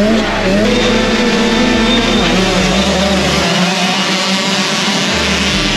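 Several dirt bike engines running and revving, their pitch rising and falling.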